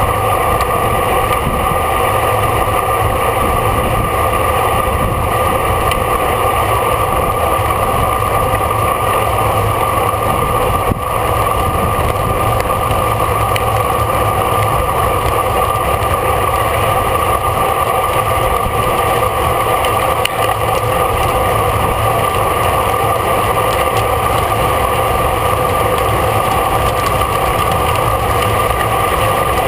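Steady rush of wind and road noise on a bicycle-mounted camera while riding in a race, with a low rumble and a constant hum.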